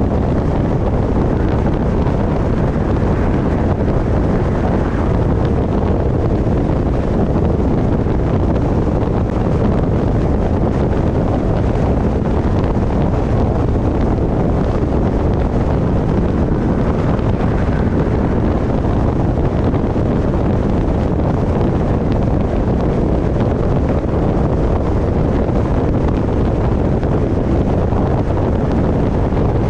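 Steady wind rush buffeting the microphone of a roof-mounted camera on a moving car, blended with the car's road noise.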